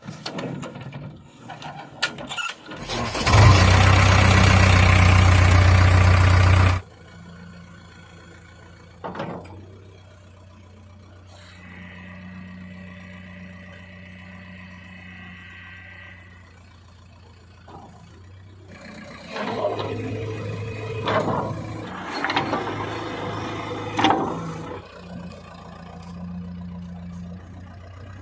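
Diesel engines of a backhoe loader and tractor running. A very loud burst of engine noise starts about three seconds in and cuts off suddenly a few seconds later; a steady low engine hum follows, growing louder again with sharp knocks near the end.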